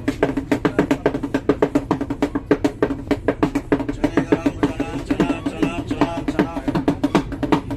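Live percussion played at a fast, steady beat on a pitched drum, with a voice singing along for a couple of seconds around the middle.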